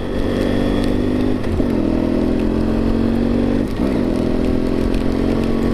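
BMW F800GS motorcycle's parallel-twin engine running steadily while riding. Its note dips briefly about a second and a half in and wavers again a little before four seconds.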